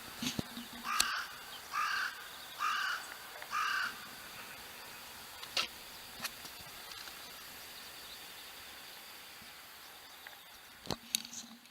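A crow cawing four times in quick, even succession, with a few sharp clicks scattered through.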